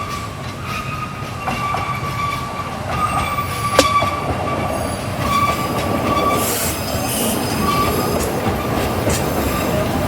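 Oigawa Railway Ikawa Line (Abt line) passenger train running, its wheels squealing on and off over a steady rumble, with a sharp click about four seconds in.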